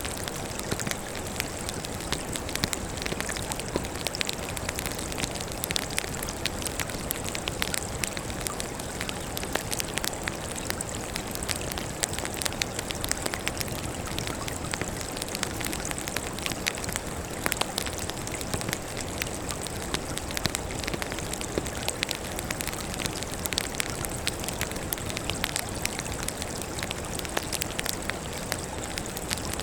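Wood campfire burning, with a dense run of small crackles and pops over a steady hiss.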